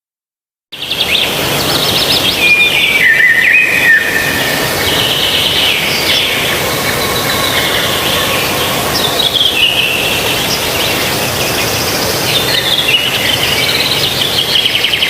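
Several wild birds calling and singing together, with overlapping whistles and falling trilled runs, over a steady background hiss. The sound starts after a moment of silence, under a second in.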